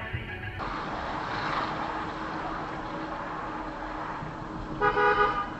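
Steady traffic noise from a car driving on a road, then a car horn honks near the end.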